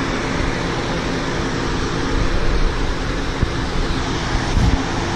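Steady vehicle and traffic noise with a low engine hum underneath.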